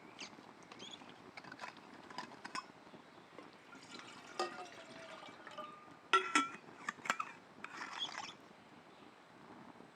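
Light clinks and knocks of camp cookware and utensils being handled, with a few ringing strikes about halfway through and a short run of sharper clinks after six seconds, between brief scraping or rustling sounds.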